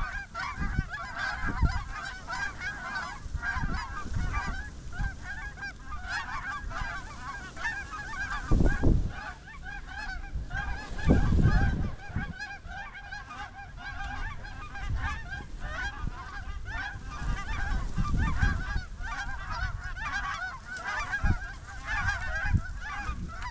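A large flock of snow geese calling all at once, a dense, unbroken chatter of overlapping honks. A few low thumps stand out about a third and halfway through.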